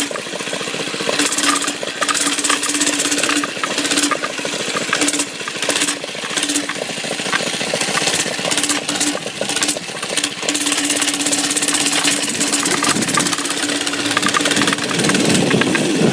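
Mini bike's small engine running under way over bumpy ground, its steady drone fading in and out, with frequent knocks and rattles from the bumps.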